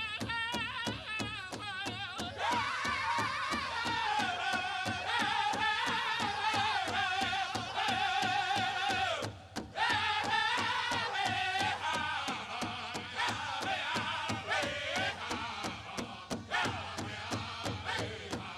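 Powwow drum group singing a chicken dance song: high, wavering voices in unison over a steady, even beat on a large powwow drum. The singing swells about two seconds in and breaks off briefly near the middle while the drum keeps going.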